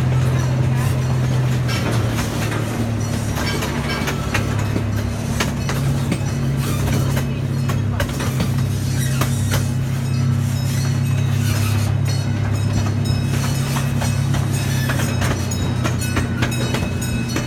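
Miniature train running along the track: a steady low engine drone with scattered clicks and clanks from the wheels and cars, heard from a passenger coach.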